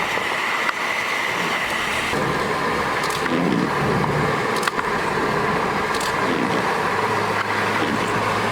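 Steady running noise of a car, with a faint high whine throughout and a few light clicks.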